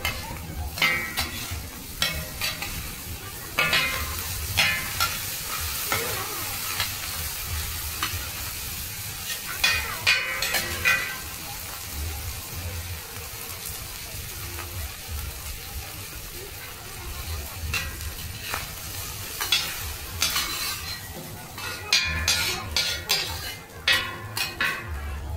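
Mussels and egg sizzling on a large flat griddle, with two metal spatulas scraping and clattering against the pan in bursts as the hoi tod is chopped and turned.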